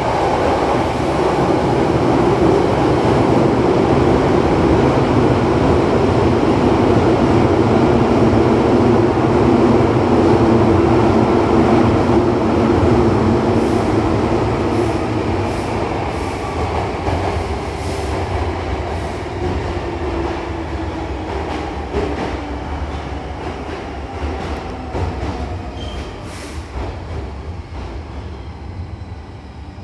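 Hankyu commuter train heard from inside the car, running through a tunnel: a steady rumble with a motor whine that falls in pitch as the train slows, growing quieter through the second half. Scattered sharp clicks from the wheels and rails come in after about halfway.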